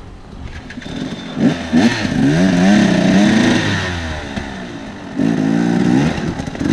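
Dirt bike engine revving in two stretches, its pitch rising and falling with the throttle, the first longer and the second starting about five seconds in.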